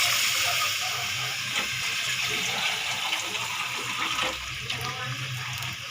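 Water being poured into a hot pot of fried chicken and masala, gushing and hissing as it hits the hot oil. The hiss is loudest at first and slowly dies down.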